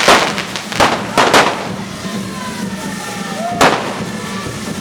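Correfoc firecrackers going off: a sharp bang at the start, three more in quick succession about a second in, and a single one about three and a half seconds in, over steady crowd noise.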